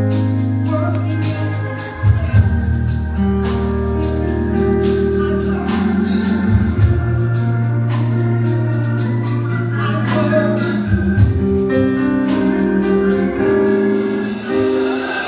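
Gospel music: organ playing long held chords over sustained bass notes, with singing.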